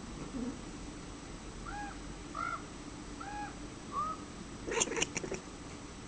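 A cat chattering at birds: four short chirps in a row, then a burst of fast clicking chatter near the end.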